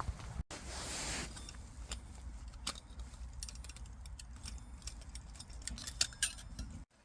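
A run of light, irregular metallic clicks and clinks, like small gear being handled, over a steady low rumble.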